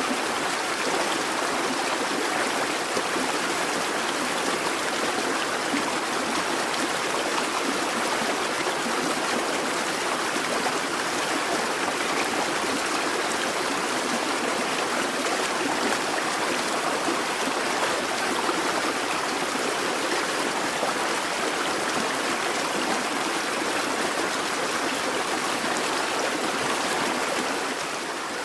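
Busy babbling brook: a steady, unbroken rush and splash of flowing water.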